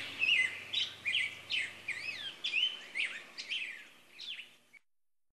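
Birds chirping: many quick up-and-down sweeping calls, several a second, fading out and stopping near the end.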